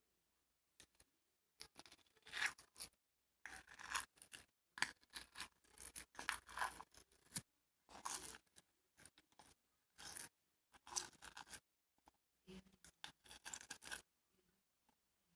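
Irregular bursts of scraping and rubbing, stopping about a second and a half before the end.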